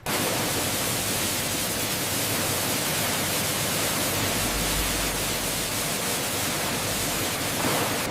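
A steady, even rushing hiss that starts abruptly, with a low hum joining about four seconds in.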